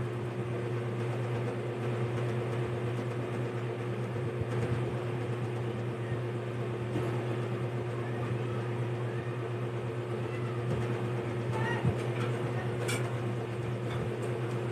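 Steady low electrical hum in a small room, with faint crunching and chewing of raw carrot.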